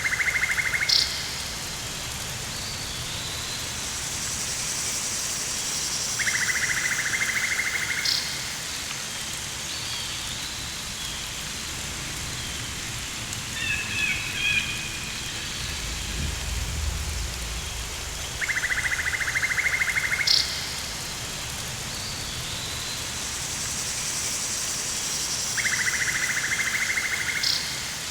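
Rainforest ambience: a steady hiss under a pulsed buzzing animal call lasting about two seconds, repeated four times at intervals of roughly six to seven seconds, each ending in a short high click. A high shimmering insect-like drone swells twice, a few short chirps come near the middle, and a low rumble sounds a little after the middle.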